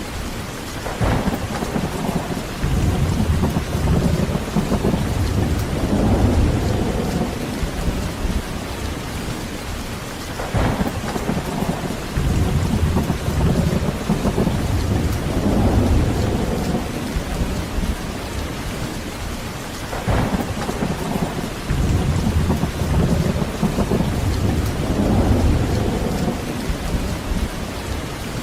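Heavy rain falling steadily, with three long rolls of thunder. Each roll starts with a sharp crack, about a second, ten seconds and twenty seconds in, then rumbles low for several seconds.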